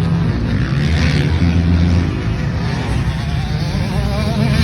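Dirt bike engine running steadily, with no sharp revving.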